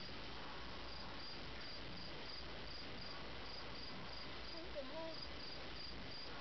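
Crickets chirping steadily: a high, even chirp repeating about three times a second over a faint background hiss.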